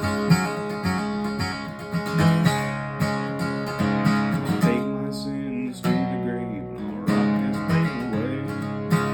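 Acoustic guitar strummed in a steady rhythm. The strumming eases off for a moment about five seconds in, leaving a few ringing notes that bend in pitch, then picks up again.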